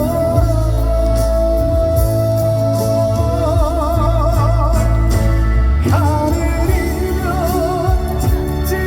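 Slow Korean trot ballad performed live: a male voice holds a long note that turns to vibrato about three seconds in, over a band accompaniment with a steady bass. Another wavering melodic line comes in near the end.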